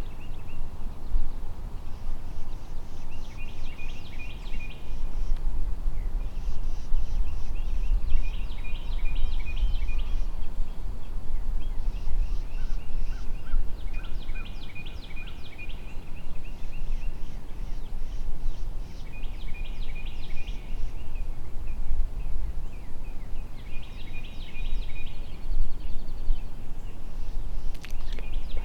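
Wind rumbling on the microphone, with a bird's short, rapid call phrase repeated every few seconds.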